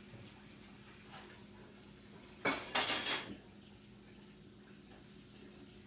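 A bowl being handled in a kitchen sink for washing: a short run of clattering clinks and knocks against dishes and utensils about two and a half seconds in.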